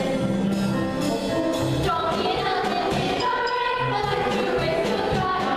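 Musical-theatre song with a group of voices singing over instrumental accompaniment.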